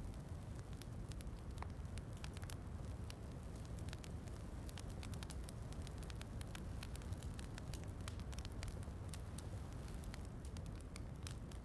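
Wood fire in a fireplace crackling, with many small sharp pops scattered over a low, steady rumble.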